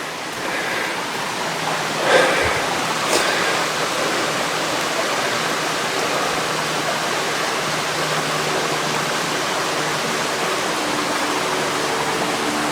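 Rushing water of a mountain stream, a steady loud rush that swells over the first second or two. Two brief knocks come about two and three seconds in.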